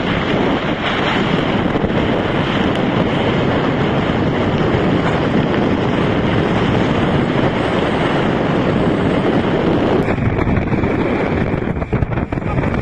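Storm wind blasting across the microphone over the rush of waves and water along the hull of an ocean racing yacht, a loud steady roar that thins a little about ten seconds in.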